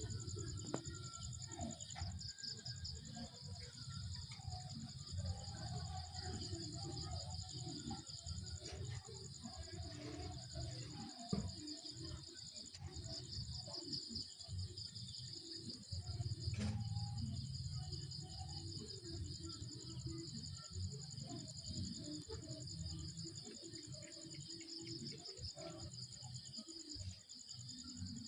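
Night insects trilling steadily, a continuous, rapidly pulsing high-pitched chorus, over a low rumble.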